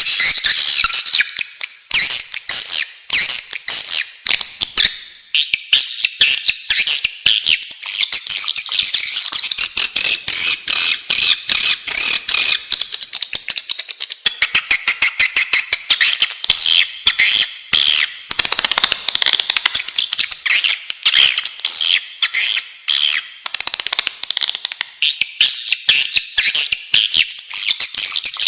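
Swiftlets calling: a dense, unbroken chatter of rapid, high twittering chirps and rattling clicks. This is the kind of call recording used to lure swiftlets into nesting houses.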